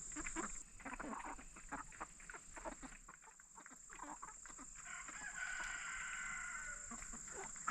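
A flock of Cornish cross meat chickens clucking and calling, with one long drawn-out call about five seconds in.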